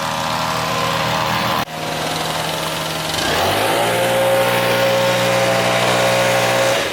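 Small engine of landscaping power equipment running steadily, then revving up about three seconds in and holding at a higher, steady speed.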